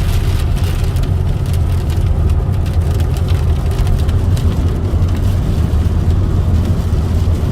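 Steady low rumble of a car's engine and road noise heard inside the cabin, with faint scattered ticks of rain hitting the vehicle.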